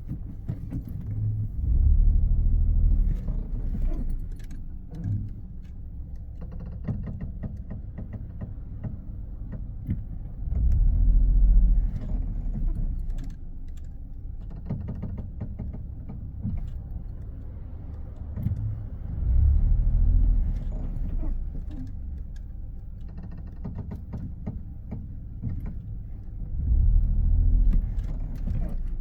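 Ford B-Max creaking and clicking with many short ticks over a steady low rumble from the car. The rumble swells louder four times, about every eight seconds.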